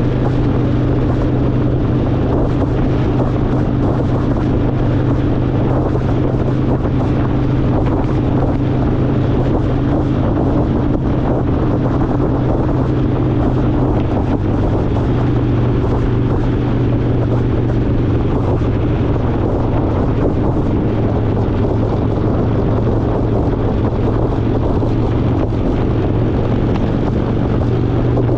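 Harley-Davidson Fat Boy V-twin engine running at a steady cruise on the road, its low exhaust note even throughout, with wind buffeting the microphone.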